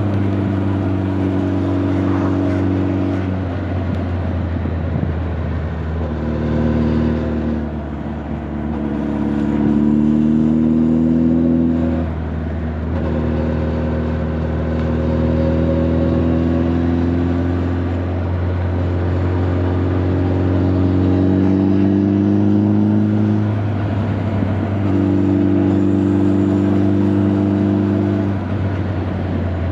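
Honda CB1300 Super Bol d'Or's inline-four engine and exhaust under way. The engine note climbs in pitch in several pulls, broken by brief dips at the gear changes about every four to six seconds.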